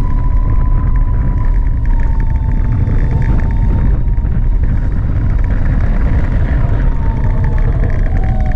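Gogoro 2 electric scooter's motor whine, a single high tone that sinks slowly in pitch, over a loud, steady low rumble of wind and road.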